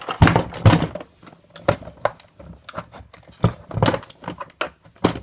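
Irregular sharp clicks and knocks of plastic parts being pried and worked at, trying to pop a clipped housing apart.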